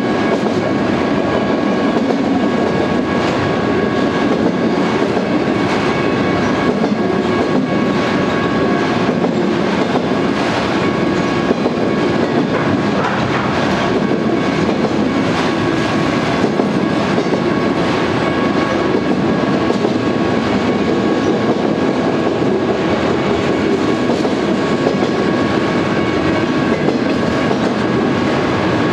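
Freight train of auto-rack cars rolling past at speed: a steady rumble of steel wheels on rail with a repeated clickety-clack of wheels crossing rail joints. A faint steady high whine runs through it.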